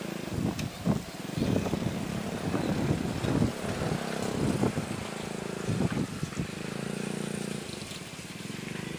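Container freight train's wagons rolling past, their wheels clacking over the rail joints in a run of repeated knocks over a steady rumble. The clacking thins out after about six seconds.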